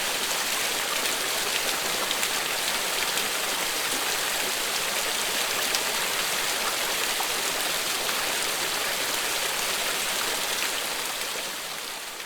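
Steady, continuous rain, a dense hiss with scattered individual drops ticking through it, fading out near the end.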